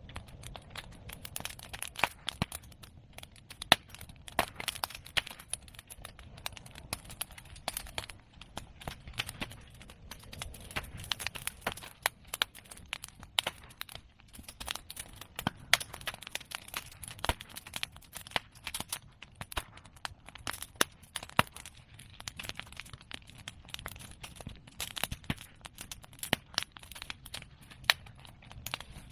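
Open fire of cut bamboo and chestnut pruning branches crackling continuously, with many sharp, louder pops scattered irregularly throughout.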